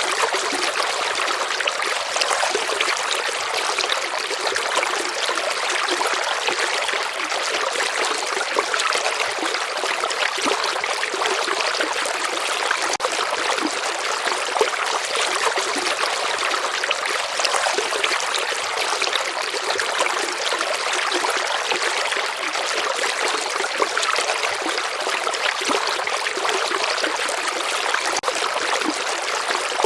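River water flowing steadily: an even trickling and running-water hiss with little bass, unchanging throughout.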